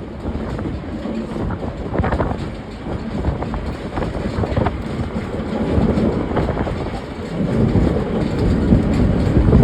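Train rolling along the track: a steady rumble with irregular clickety-clack knocks from the wheels on the rails, growing louder near the end.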